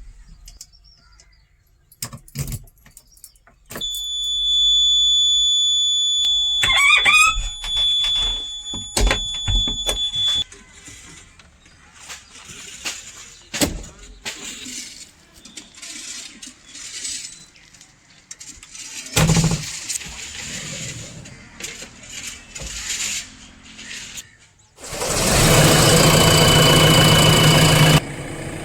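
Worksite machinery: a steady high-pitched whistle for about six seconds, scattered sharp knocks, then a loud rushing hiss for about three seconds near the end.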